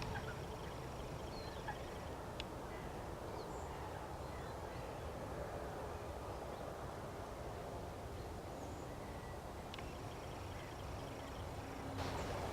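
Faint, scattered short bird calls over steady low background noise of open-air ambience.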